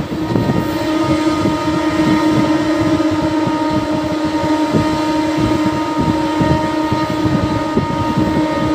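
Passenger train running at speed, heard from on board: a steady hum over the continuous rumble and clatter of the wheels on the track.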